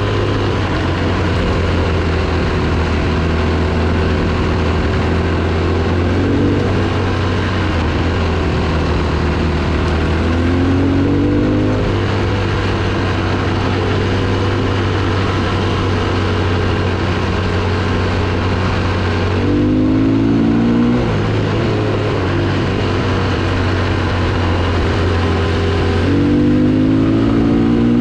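Dirt bike engine running under way on a trail, its pitch climbing four times as the throttle is opened and dropping back between.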